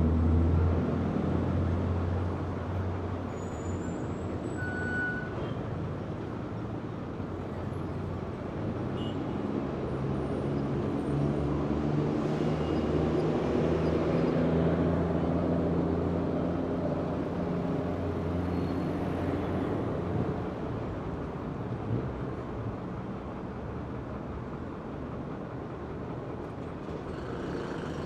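Heavy city street traffic: the low engine drone of large vehicles running and passing over a steady wash of road noise. A loud heavy engine at the start fades, and another swells about halfway through.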